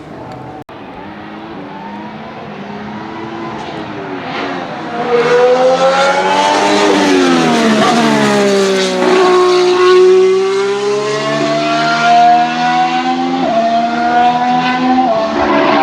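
2019 Formula 1 cars' 1.6-litre turbocharged V6 hybrid engines at high revs on track. A car comes closer and grows loud about five seconds in, its note falls as it passes by, then an engine note climbs again with two sudden drops in pitch near the end, the sound of upshifts.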